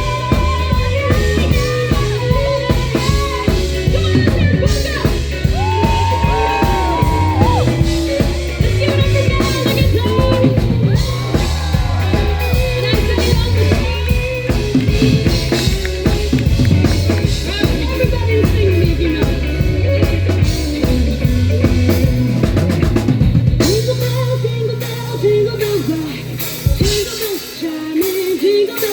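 Live band music: a drum kit and bass keep a steady beat under a singing voice. The drums and bass drop out about four seconds before the end.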